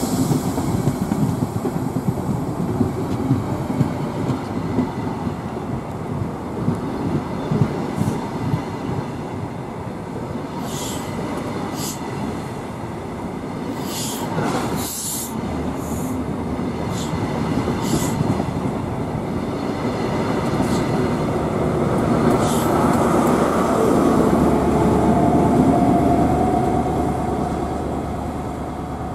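Express passenger coaches running past close by, wheels clattering over rail joints with a few brief high squeals. Later a Class 43 HST power car's diesel engine hums louder and louder as it approaches, then eases off near the end.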